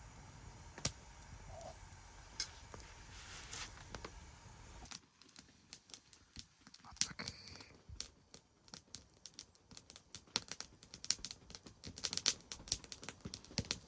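Wood fire crackling and popping in a secondary-combustion fire pit. About five seconds in the sound changes abruptly, and from then on sharp irregular pops come thicker and louder toward the end.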